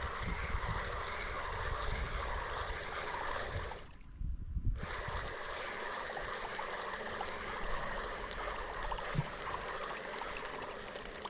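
Fishing reel being cranked to retrieve line, a steady whirring hiss that stops for about a second near the four-second mark and then resumes.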